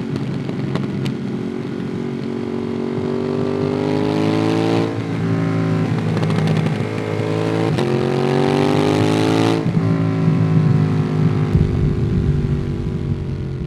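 Ducati Monster 821's L-twin engine through a QD Twin Gunshot aftermarket exhaust, heard from the rider: accelerating with rising pitch, a gear change about five seconds in, rising again, then the revs falling off throttle from about ten seconds. A low rumble comes in near the end.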